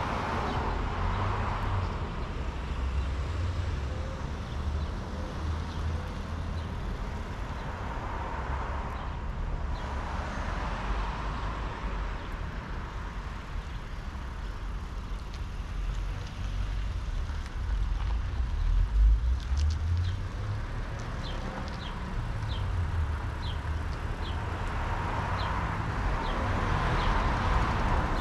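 Road traffic: cars passing one after another, each swelling and fading over several seconds, with a low rumble beneath. Short, faint bird chip notes come in the later half.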